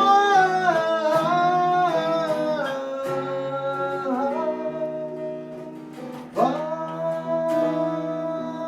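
Acoustic guitar accompanying a wordless vocal line of long held, gliding notes; one phrase fades around four seconds in and a new held note starts about six seconds in.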